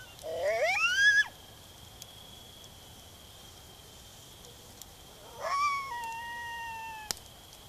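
Recorded coyote howls played back through a phone speaker: a quick rising call about a second long, then a second call that rises and holds a long, slowly falling note before cutting off abruptly.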